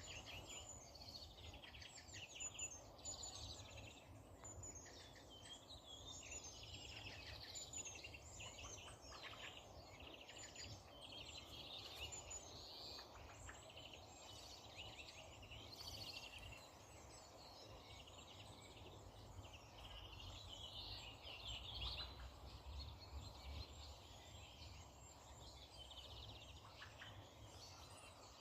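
Several songbirds singing and chirping at once, overlapping trills and calls throughout, faint over a steady low rumble.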